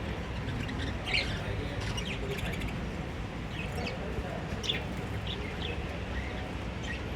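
Lovebirds chirping: short, high, scattered chirps a few times a second apart, over a steady low background hum.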